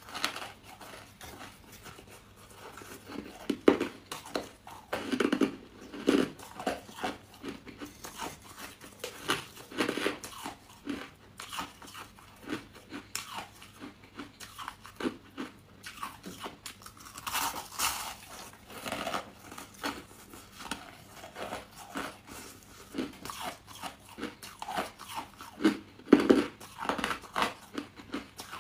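A person biting and chewing crunchy white chunks, with irregular crunches throughout and two sharper bites, one early and one near the end.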